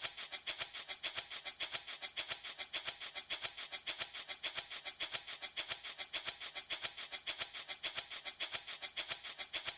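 Handmade wooden baby rattle shaken in a steady, fast rhythm: a continuous crisp rattling of loose beads inside, with regular stronger accents, used as a soothing sleep sound.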